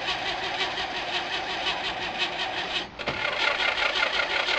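Starter cranking the long-dormant straight-six of a 1949–53 Chevrolet five-window pickup, a steady rhythmic churn of about five or six beats a second, without the engine catching. The cranking stops for a moment about three seconds in, then starts again louder.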